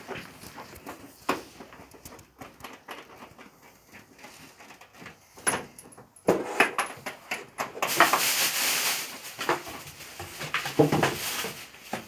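Scattered clicks and knocks of metal parts and tools being handled during a water heater installation, with about a second of hiss around eight seconds in.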